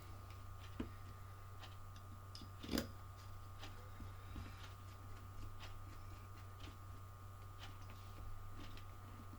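Scattered small clicks and taps of screws and hand tools being handled while motor screws are fitted, the sharpest about three seconds in, over a steady electrical hum.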